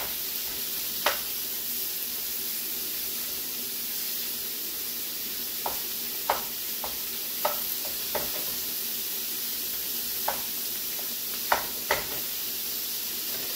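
Chunk chicken and sweet peppers sizzling steadily in a skillet while being stirred. A wooden spatula knocks and scrapes against the pan about ten times, mostly in the second half.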